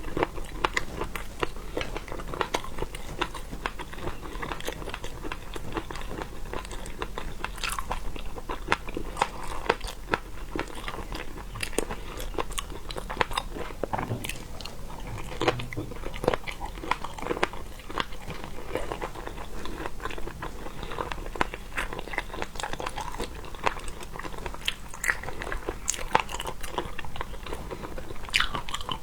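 Close-up eating of seafood: biting, chewing and crunching, with a dense run of sharp clicks and crackles.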